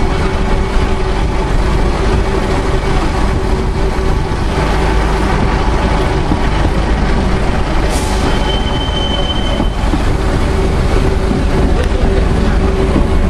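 Narrow-gauge train running at speed, heard from beside the moving carriage: a steady rumble of wheels on rail. A little past the middle comes a short sharp click, then a brief high wheel squeal of about a second.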